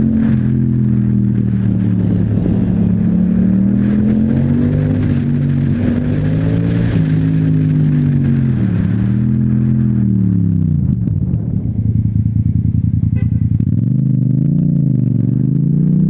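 Yamaha MT-07's parallel-twin engine through an Akrapovic exhaust, revving up and down through gear changes with wind rush on the microphone. It slows to a low, near-idle note a little past the middle, then revs up again to pull away near the end.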